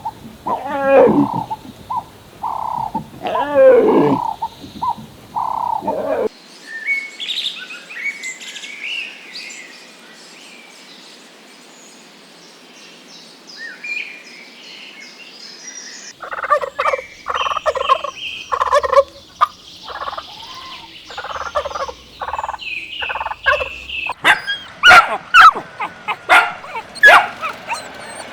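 Bird calls in several short clips: loud calls that bend in pitch for the first six seconds, then thin high chirping and twittering, then a fast run of pulsed calls from about sixteen seconds in, and sharp high chirps near the end.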